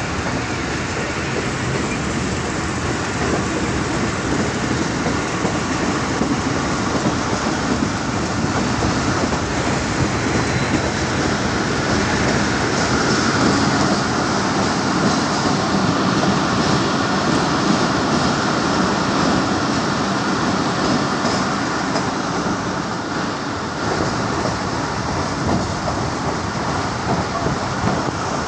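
Passenger train running along the track, wheels clattering on the rails, heard from an open carriage door. It grows louder for several seconds in the middle while the train is inside a rock tunnel.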